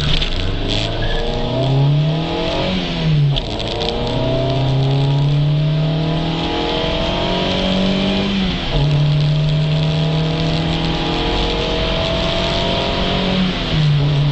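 1987 Volkswagen Scirocco Mk2's JH four-cylinder engine (95 PS) pulling hard under full acceleration. Its note climbs through each gear and drops sharply at gear changes about 3, 9 and 14 seconds in.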